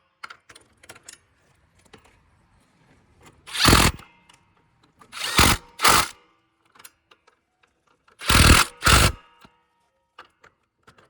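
A cordless power tool runs in five short bursts, in three groups, as it tightens the hood latch's 12 mm bolts. Small clicks and handling knocks come between the bursts.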